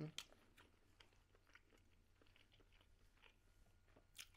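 Faint close-up chewing of a mouthful of sausage, soft wet mouth clicks throughout, with a sharper click just after the start and a louder one near the end.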